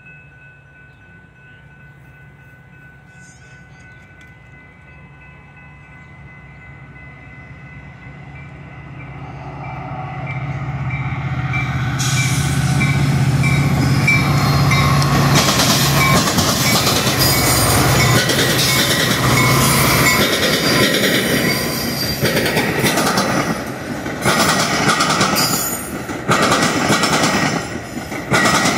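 Metra commuter train with its diesel locomotive coming through a grade crossing, swelling from faint to loud over the first half. Its double-deck coaches then roll past with irregular clanks and wheel clatter from the rails. A steady ringing from the crossing signals runs underneath.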